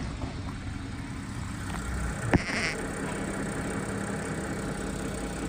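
Audi A6 V6 engine idling steadily, with the light 'da-da-da' ticking that the owner hears at the front and fears may be a stretched timing chain. A brief sharp click with a short high chirp comes about two seconds in.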